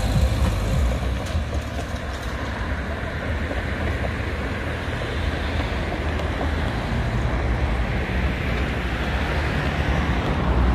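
Steady rumble of a Southern Class 377 electric train on the line, mixed with cars driving over the level crossing.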